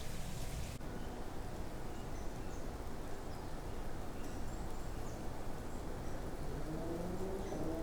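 Forest ambience: a steady low background hum with faint, short high chirps of small birds or insects. Near the end a pitched sound with several tones starts and slowly rises.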